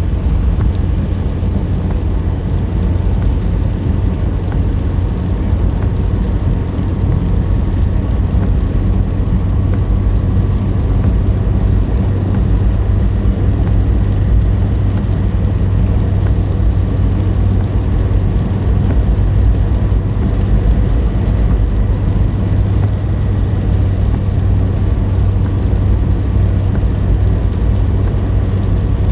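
Car driving along: a steady low rumble of engine and road noise with no sudden changes.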